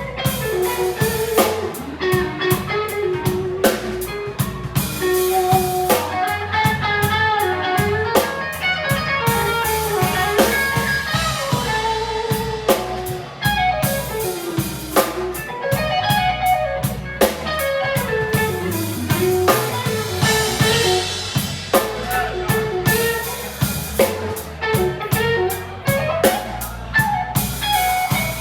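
Blues band playing a slow blues: an electric guitar lead line with sliding, bent notes over drum kit and bass.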